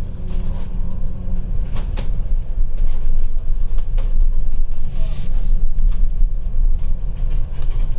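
Inside a moving bus: the engine and road make a steady low rumble, with a few short knocks and rattles from the body.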